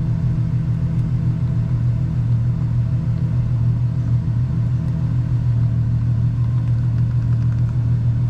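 Ferrari FF's V12 engine idling steadily, heard from inside the cabin, running at idle to warm the oil for an oil level check.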